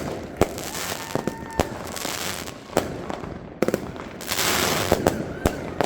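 Fireworks going off: a string of sharp, irregularly spaced bangs, with two stretches of hissing crackle, one near the start and one after about four seconds.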